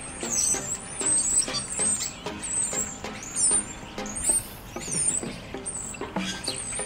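Small birds chirping in quick, high, repeated chirps, over scattered light clicks and crackles.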